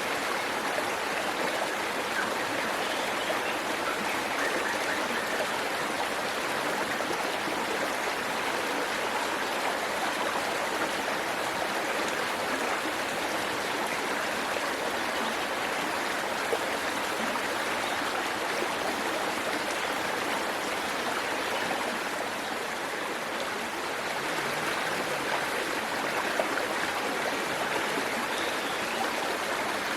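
Waterfall and stream water rushing and splashing as a steady, even wash of noise.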